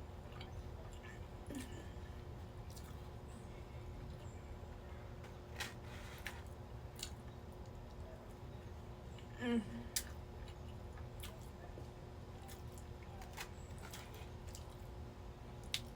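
Close-miked eating sounds: chewing and soft mouth clicks and smacks, scattered through a quiet room hum. About halfway through there is one short sound that falls in pitch.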